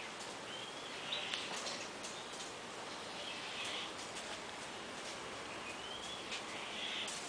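Birds calling in the background: short high chirps that rise and fall in pitch, repeating every couple of seconds over a steady outdoor hiss.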